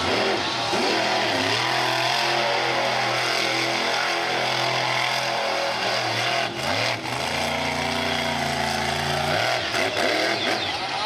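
Monster truck engine revving hard under throttle. The pitch dips briefly about six and a half seconds in, climbs again and is held, then falls away near the end as the throttle is let off.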